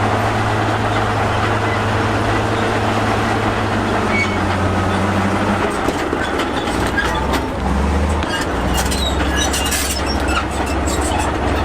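Heavy diesel earthmoving machinery running steadily, its engine note dropping to a lower hum about six seconds in, with scattered clanking and rattling of metal and rock in the second half.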